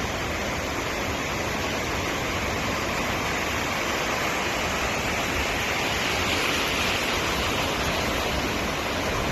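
Sea waves breaking and washing in, a continuous rush of surf that swells slightly past the middle.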